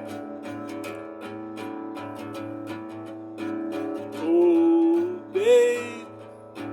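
Acoustic guitar strummed in a steady rhythm. About four seconds in, a voice sings two long wordless notes over it, louder than the guitar.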